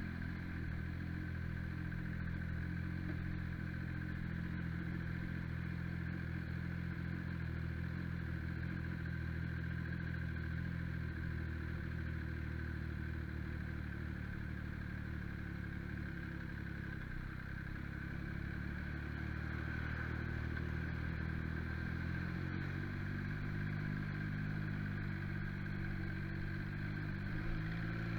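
MV Agusta Brutale motorcycle engine running steadily at idle, its pitch barely changing, picking up slightly near the end.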